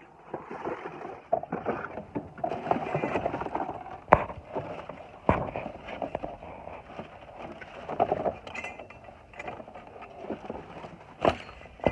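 Hands rummaging through metal hardware and debris in a dumpster: irregular scraping and rustling with sharp clanks of metal, the loudest about four seconds in, a second later, and near the end.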